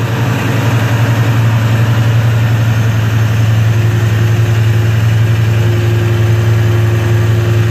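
A 1989 Ford Mustang GT's 5.0-litre V8 idling steadily through newly fitted equal-length headers. There is no sign of an exhaust leak at the header flanges.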